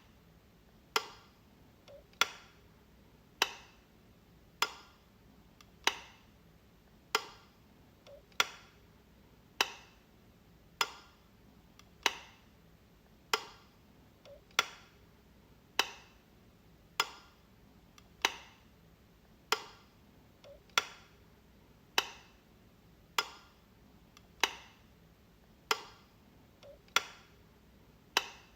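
Light switch clicking, one sharp click about every 1.2 seconds, with a faint softer click just before a few of them.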